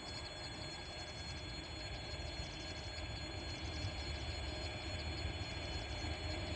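Distant low rumble of an approaching freight train hauled by a 3ES5K electric locomotive, slowly growing louder.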